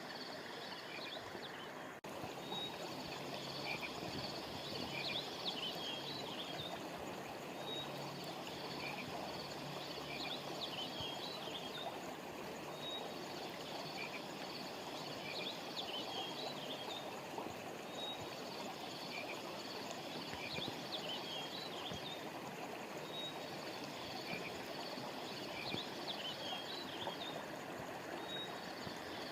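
A flowing stream with a steady rushing sound. Over it, a high chirping call phrase repeats about every five seconds, each opening on a short clear note and trailing off in quick chirps.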